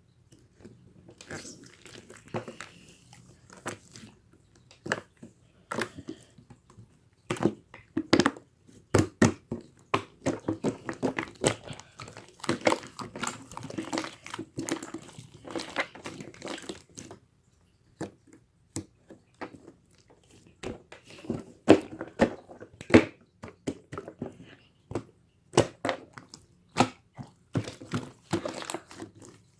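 Irregular close-up crinkling and crunching with many sharp clicks, in busy stretches with a short lull in the middle.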